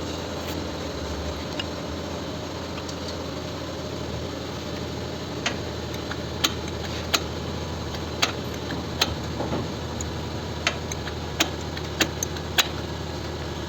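Sharp metallic clicks and taps at irregular intervals, starting about five seconds in, from hand work on a Kia K5 engine's timing chain and cam phaser, over a steady low hum.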